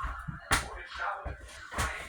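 Two sharp smacks or knocks about a second and a quarter apart, over faint background music.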